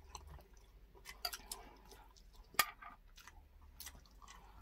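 Close-miked eating sounds: wet chewing and lip smacks on grilled pork barbecue and soup, with scattered sharp clicks, the loudest about two and a half seconds in.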